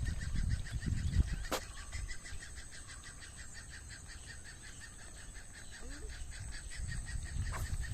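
Outdoor ambience: a steady, rapid chirping pulse, about five a second, with low rumbling noise near the start and end and two sharp clicks.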